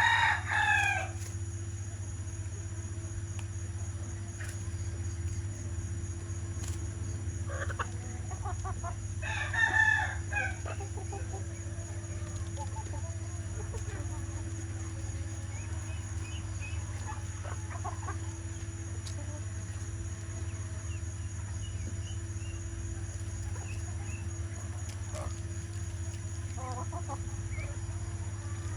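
Chickens calling, with two loud rooster-like calls, one right at the start and one about ten seconds in, and fainter clucks scattered through the rest. A steady low hum runs underneath.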